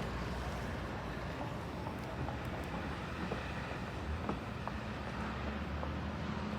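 Steady outdoor street ambience with a low engine rumble from vehicles, a few faint ticks scattered through it.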